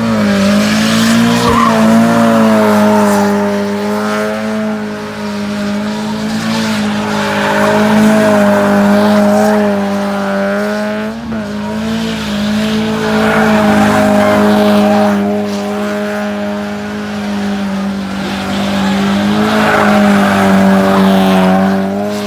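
A car doing donuts: its engine held at high revs with the tyres spinning and squealing on the pavement, the sound swelling and fading about every six seconds as the car circles.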